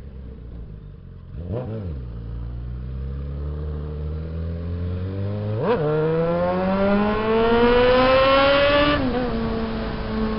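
Suzuki Bandit 650S inline-four motorcycle engine under way. The revs blip briefly at about a second and a half, jump near six seconds, and climb steadily while accelerating. They drop back at about nine seconds and hold steady.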